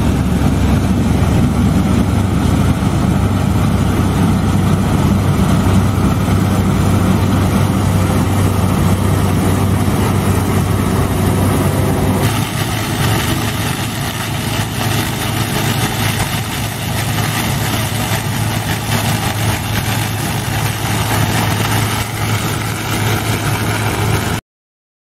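Combine harvester engine and threshing machinery running steadily with a deep hum. About halfway through the sound changes abruptly: the low hum drops back and a brighter noise takes over. It cuts off suddenly near the end.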